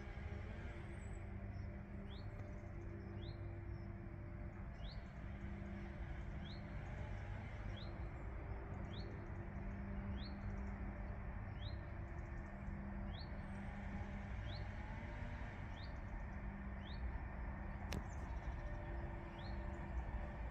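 Quiet outdoor background with a low steady hum, over which a bird repeats a short rising chirp roughly once a second.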